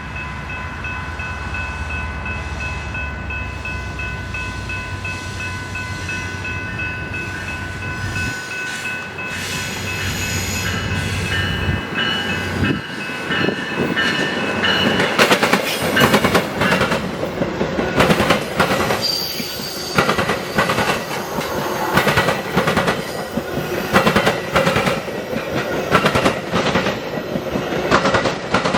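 A passing train. A low engine rumble and a long steady high tone come first. Then, from about halfway, the level rises and the wheels clatter over the rail joints in repeated sharp clacks.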